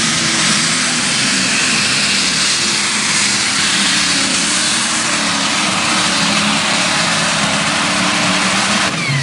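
Oliver 2255 unlimited super stock pulling tractor's alcohol-fuelled engine running at full throttle under load during a pull: loud and steady, its pitch wavering. About nine seconds in the power drops off suddenly with a falling whine as the pass ends.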